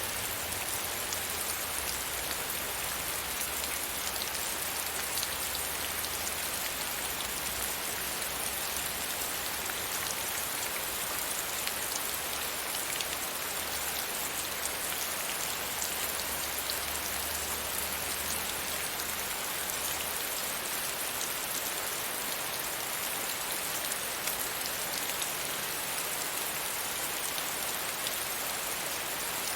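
Steady rain falling, an even hiss with scattered drop ticks, over a low rumble that drops away about twenty seconds in.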